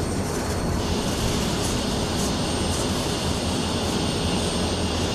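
Steady rumble and rail noise of a train moving along the tracks.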